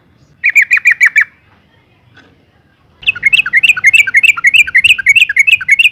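Yellow-vented bulbul calling: a short burst of about seven quick, falling chirps, then, after a pause, a longer rapid chattering run of notes lasting about three seconds. It is the call of a female that draws a male bulbul to answer.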